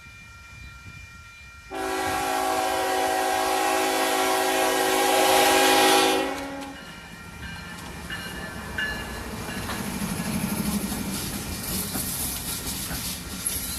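Train horn sounding one long blast of several tones together, growing louder as the train approaches, then cutting off; the train then passes with a rumble and scattered wheel clicks.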